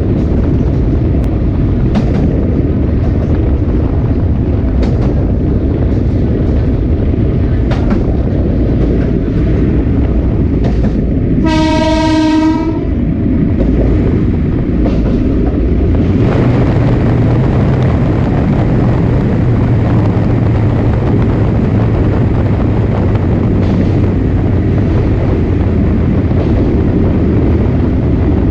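Sagano Romantic Train running, heard from its leading SK200 passenger car: a steady rumble with the clack of wheels over rail joints, and the train horn sounded once for about a second midway. About halfway through, the running noise grows brighter, with a low steady hum underneath.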